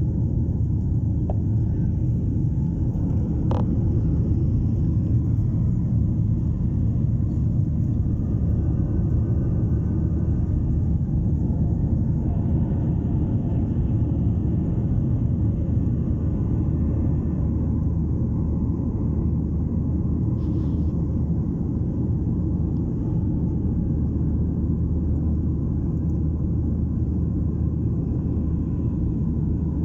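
Airliner cabin noise heard from inside the cabin: a steady low rumble of the jet engines and airflow, with a brief click about three and a half seconds in.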